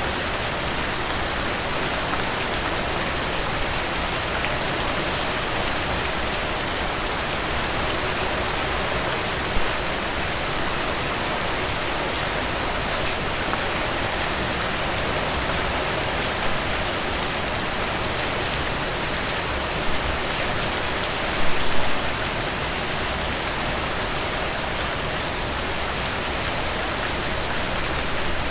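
Heavy rain falling steadily, a dense even hiss of drops on surfaces, with a few brief louder spatters about ten, twenty and twenty-two seconds in.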